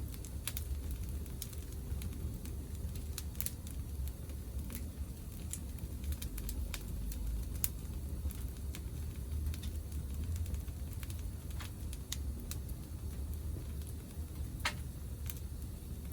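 Wood fire burning in a portable Picogrill brazier, crackling with irregular sharp pops over a low steady rumble.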